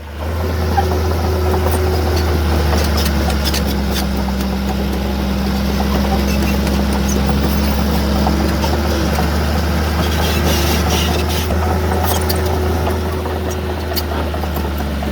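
Heavy diesel engine of earthmoving machinery running steadily, a deep low hum with a level drone above it, and a few faint clicks.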